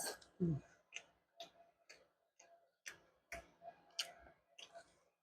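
Close-miked chewing and mouth clicks while eating, a wet smack roughly twice a second at an uneven pace. A short falling hum about half a second in.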